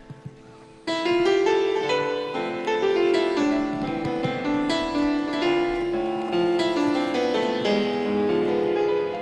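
Live band music: a keyboard-led instrumental intro with a quick, busy melody, coming in loud and sudden about a second in after a quiet passage.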